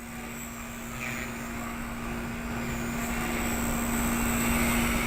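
Blade 130X micro RC helicopter in flight, a steady hum from its rotors and motor that grows louder toward the end and then eases off slightly. It is flying on a stripped main gear that is missing about ten teeth.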